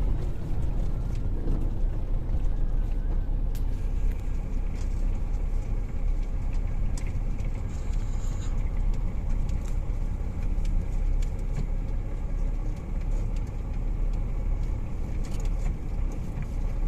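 Steady low rumble of a heavy truck's diesel engine running, heard from inside the cab.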